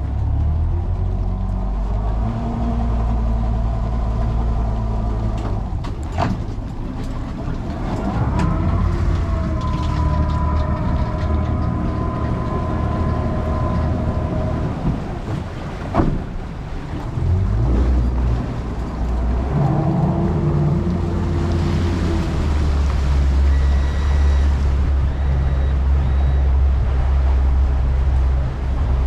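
Boat's motor running steadily under way, its engine note rising and shifting a few times, with a couple of sharp knocks.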